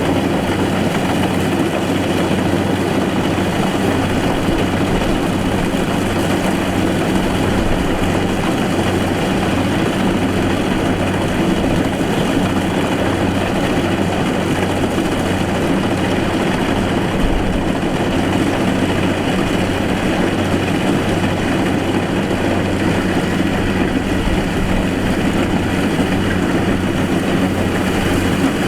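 Kubota DC70 rice combine harvester running steadily under load, its diesel engine and threshing machinery giving an even, unbroken hum.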